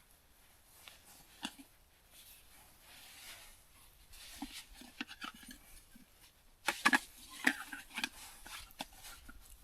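Light clicks, rustles and clatter of camp gear being handled and packed away, with a louder burst of clatter about seven seconds in.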